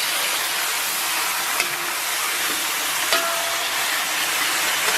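Chunks of blanched beef sizzling in hot oil in a pan with scallion, ginger and soybean paste: a steady, dense hiss. Two light clicks are heard, about one and a half and three seconds in.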